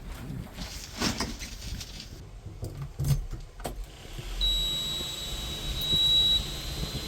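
Diesel engine of a JCB 3DX backhoe loader running under load while loading mud, with several sharp metallic clanks about a second, three seconds and three and a half seconds in. A steady high whine joins a little past halfway.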